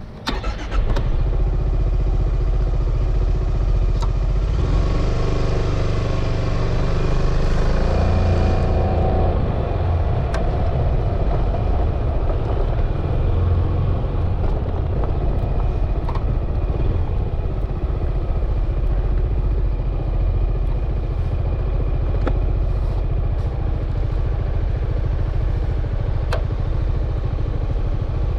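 Yamaha XMAX 300 scooter's single-cylinder engine running as the bike pulls away, its pitch climbing between about 4 and 9 seconds in, under a steady low rumble of wind and road noise.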